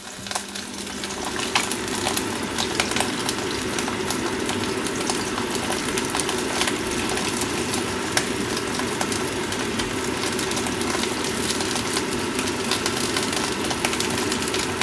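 Partly frozen sausages sizzling in hot oil in a frying pan, with dense crackling and spitting as their ice melts into the fat. It builds over the first couple of seconds, then holds steady over a low hum.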